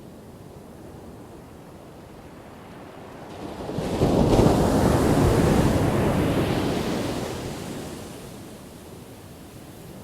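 Ocean surf: a low, steady wash, then a single wave breaks about four seconds in, loud for a couple of seconds before slowly fading back to the wash.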